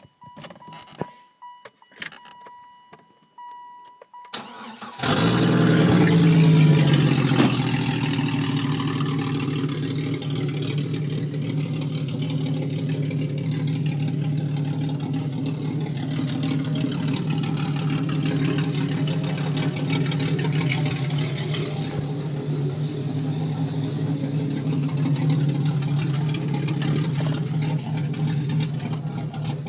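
A dashboard warning chime beeps a few times, then the 1995 Jeep Grand Cherokee ZJ's engine is cranked and catches about five seconds in. It runs at a raised idle for a couple of seconds, then settles into a steady idle through the exhaust chopped off just behind the crossmember.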